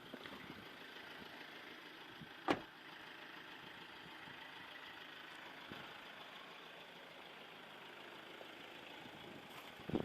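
Steady, faint hiss inside a 2013 Toyota RAV4's cabin, with one sharp click about two and a half seconds in and a few knocks near the end.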